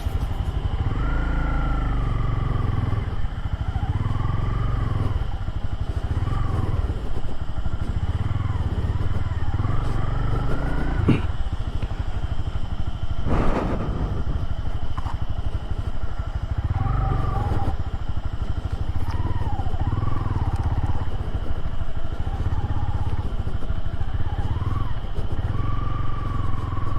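Motorcycle engine running steadily under way, with a constant low rumble. There is a sharp knock about eleven seconds in and a brief burst of noise a couple of seconds later.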